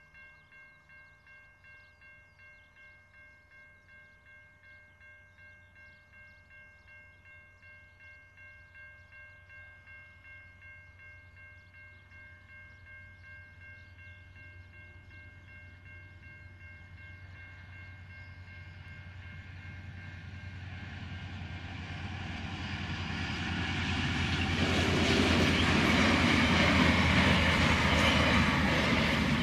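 Level crossing warning bell ringing in a steady pulsing rhythm, about two strokes a second, as an approaching diesel freight train's locomotives grow from a faint rumble to a loud one. The train is passing close by in the last few seconds.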